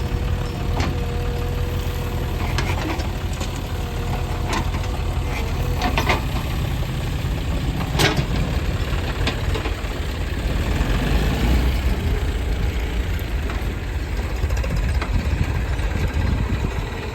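Diesel engines of a backhoe loader and tractor running steadily, with a few sharp knocks scattered through. A steady whine stops about five seconds in.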